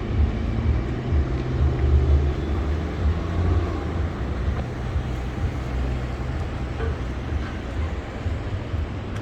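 Road traffic: vehicle engines running with a low rumble over a steady hiss.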